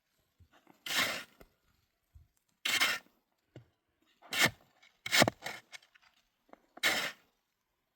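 A series of short, harsh scraping strokes, about five of them, roughly one every second and a half.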